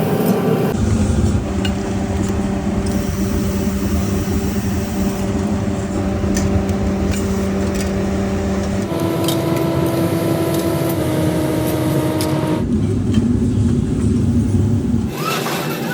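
Factory machinery running with a steady, noisy rumble and hum. The hum's pitch changes abruptly several times as one machine sound gives way to another.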